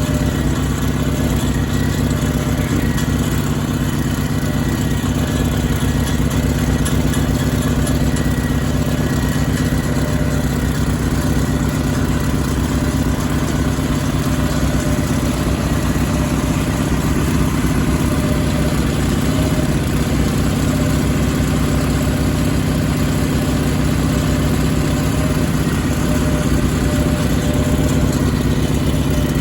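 Sears Suburban garden tractor engine running steadily, its exhaust note even throughout.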